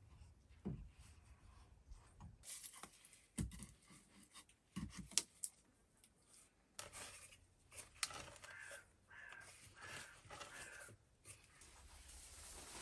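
Faint scattered knocks and handling noises, with a run of about four short, harsh bird calls a little past the middle.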